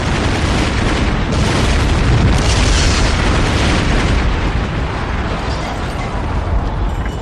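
Loud, continuous rumbling noise with a heavy low end.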